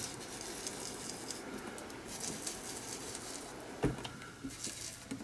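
Soft, steady scrubbing of an ink blending applicator rubbing Distress Ink onto paper, with one small tap about four seconds in.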